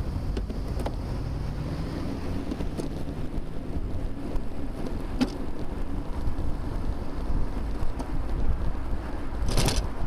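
Wind buffeting a bicycle-mounted camera's microphone over steady road rumble while riding in traffic, with a few faint clicks and one louder sharp rattle near the end.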